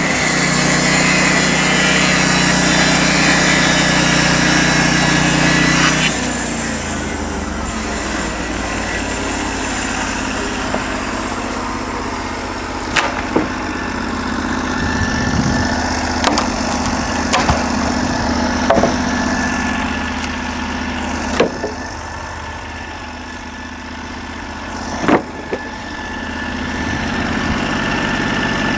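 The 16 hp engine of a Norwood LM29 portable sawmill runs fast for about six seconds, then drops to a steady idle. Several sharp knocks come every few seconds over the idle.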